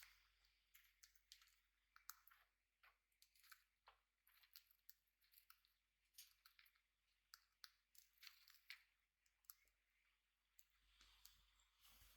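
Very faint, irregular clicking and crunching from pet budgies and cockatiels pecking and nibbling, a few small clicks a second.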